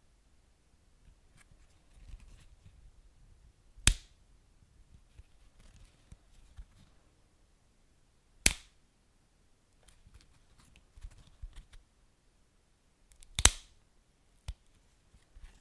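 Wood fire burning with faint soft crackling and three loud, sharp pops about four to five seconds apart, then a smaller pop near the end.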